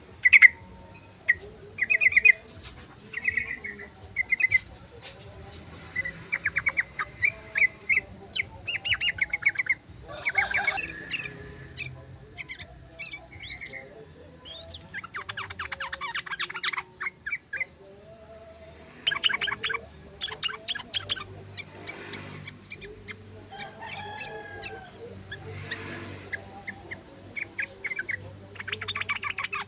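Yellow-vented bulbuls (trucukan) chattering: bursts of rapid trilling notes, each lasting about a second, repeated with short pauses.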